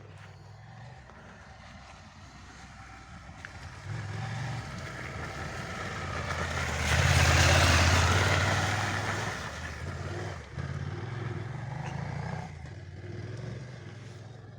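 Trail motorcycle engine approaching and passing close by, loudest about halfway through. The engine dips briefly, picks up again and then fades away.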